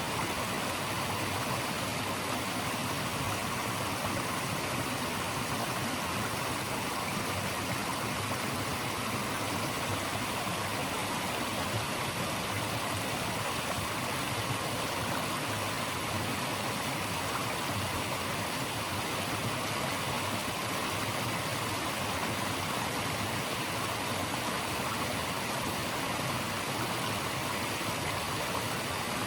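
Rushing water of a stream, a steady, unbroken white-noise rush.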